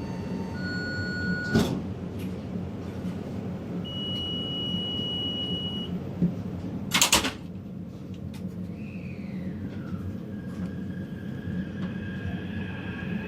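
Taipei Metro train on the Zhonghe-Xinlu line: a steady low rumble, a steady electronic beep lasting about two seconds, and a short loud clatter about halfway through. Near the end, a falling whine gives way to steady high motor tones.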